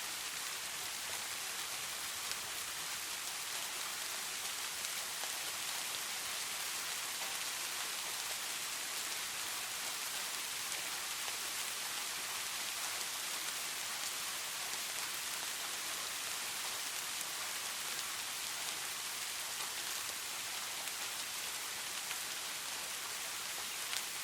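Steady rain falling, a constant even hiss of many drops with a few single drop ticks standing out, and no thunder.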